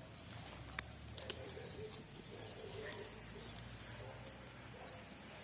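Dove cooing, a short run of low coos, with a couple of sharp clicks about a second in.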